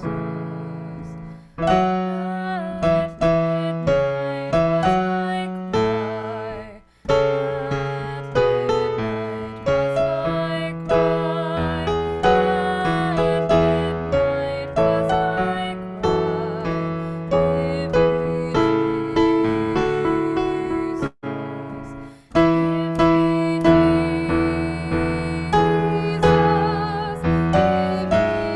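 Instrumental piano music: struck chords and melody notes that fade away, with a few short breaks between phrases.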